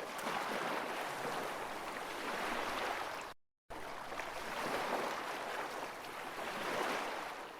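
Ocean waves washing in, a steady rushing that swells and eases every few seconds. It drops out to silence for a moment a little over three seconds in, and fades near the end.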